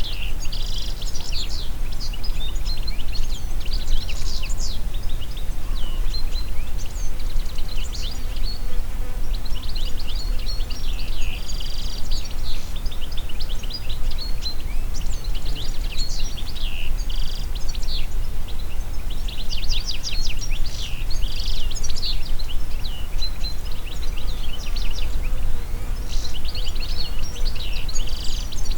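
Wind through forest trees, a steady low rush, with several songbirds chirping and trilling high above it in quick, frequent, often overlapping phrases.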